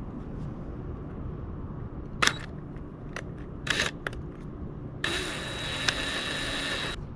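A power drill runs for about two seconds near the end, starting and stopping sharply, as it drills out a stripped stud thread in the engine case for a Helicoil insert. A few sharp clicks and knocks of tools come before it, over a steady low rumble.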